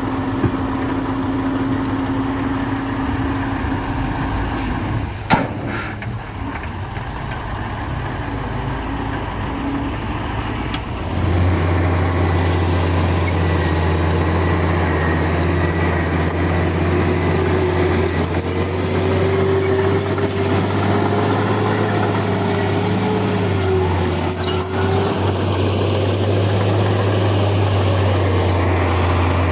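Heavy diesel engines of earthmoving machinery running steadily, with a single sharp bang about five seconds in. About eleven seconds in, a deeper, louder engine drone takes over, and later a whine rises and falls for several seconds.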